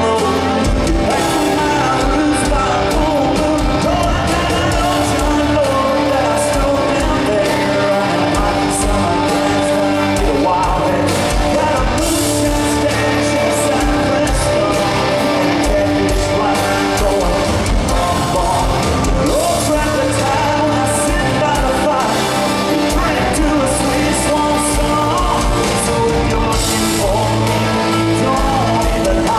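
Live country-rock band playing with a lead singer, loud and steady, over a regular drum beat.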